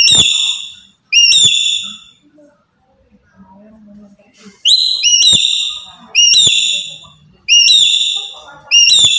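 Black-capped lory giving loud whistled calls, about six in all. Each call starts suddenly, rises briefly and then holds for about half a second, with a pause of a few seconds after the second call.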